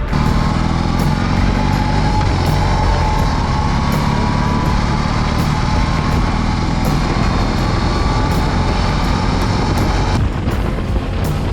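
Motorcycle riding at speed, engine and wind noise steady, ending about ten seconds in, over background music.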